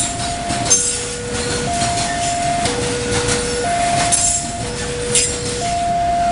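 Container freight train's flat wagons rolling past over a level crossing, with a steady rumble and a few sharp clanks. Over it, the Indonesian level-crossing alarm keeps sounding its two-tone warning, alternating a higher and a lower tone about once a second.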